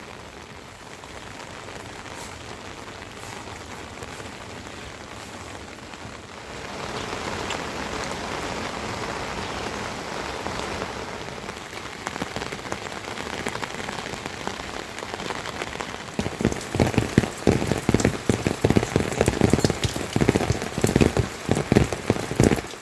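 Rain falling, growing heavier about six seconds in; from about sixteen seconds large drops strike close by in a loud, irregular patter.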